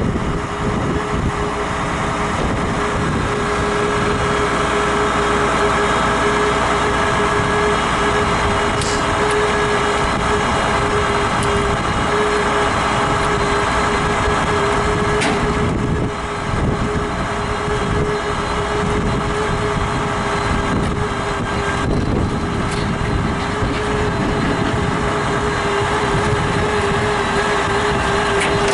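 Old International KB rollback truck's engine running steadily, with a steady high whine over it.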